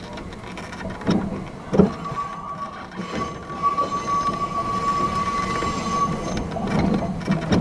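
Fujikyu 8500-series electric train heard from inside its driver's cab as it rolls slowly into the station: two knocks about one and two seconds in, the second the loudest, then a steady high squeal for about four seconds and a rumbling clatter near the end.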